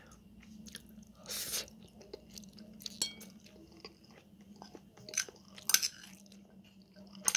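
Quiet eating sounds: a person chewing spicy instant noodles, with a few sharp clicks of stainless-steel chopsticks against a ceramic bowl, over a faint steady hum.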